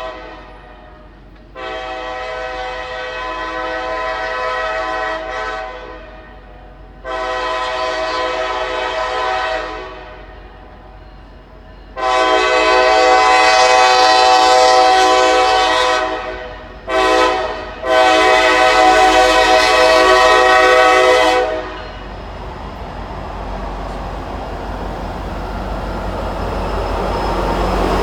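A diesel locomotive's multi-chime air horn sounds a series of blasts. The last four are long, long, short, long: the standard grade-crossing signal. Then the train's rumble builds as it approaches.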